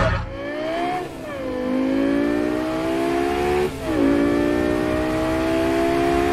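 Lexus LFA's V10 accelerating hard, its pitch climbing steadily, with two quick upshifts about a second in and near four seconds that each drop the pitch before it rises again.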